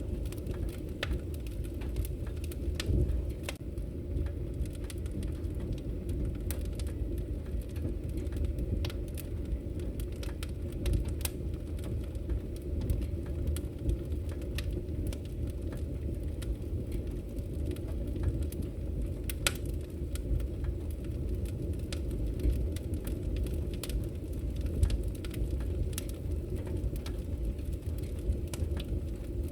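Wood fire burning in a fireplace: a steady low rumble of flames with frequent sharp crackles and pops, a few of them louder than the rest.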